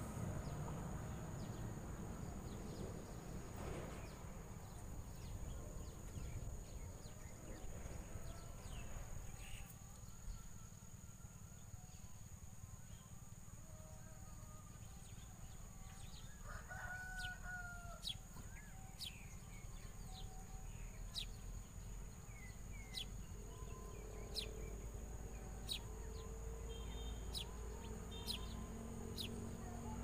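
Outdoor ambience with a low wind rumble and a steady high whine. A single distant bird call comes about halfway through, followed by a run of sharp high ticks.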